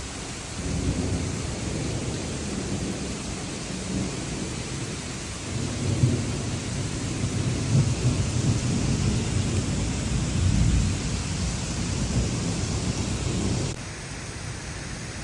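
Heavy rain pouring down in a steady hiss, with an uneven low rumble underneath that drops away about fourteen seconds in.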